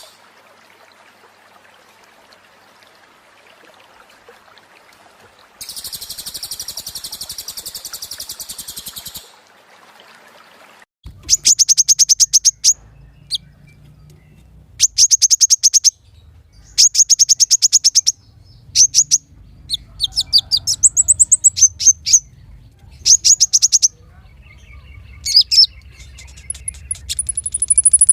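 Small songbird singing very rapid, high-pitched trills. A buzzy trill comes about six seconds in, then a run of loud, chattering trill bursts, each about a second long with short pauses between, some ending in falling notes.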